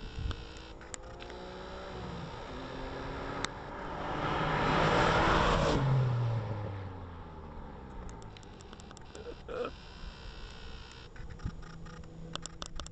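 A Mitsubishi GTO (3000GT VR4) with a twin-turbo V6 driving past, its engine note gliding in pitch and swelling to its loudest about five seconds in, then fading as the car pulls away down the road.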